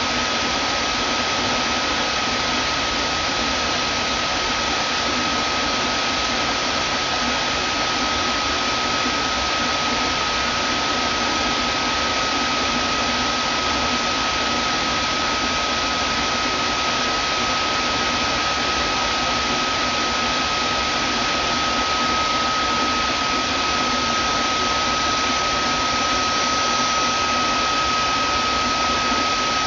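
Vacuum cleaner running steadily: an even rush of air with a constant high motor whine over it.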